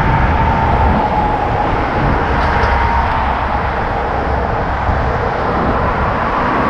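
Steady roar of interstate highway traffic on I-95, with a faint continuous whine riding over it.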